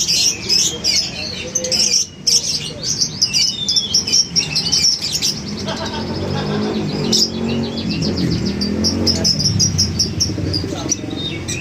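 Many lovebirds chattering together, a dense stream of rapid, high, overlapping chirps.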